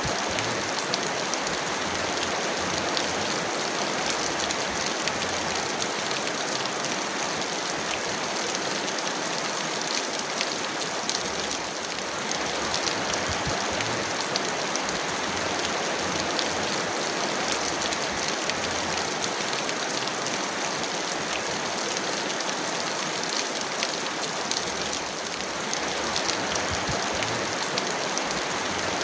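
Heavy rain falling steadily, a dense even hiss with the ticks of individual drops close by.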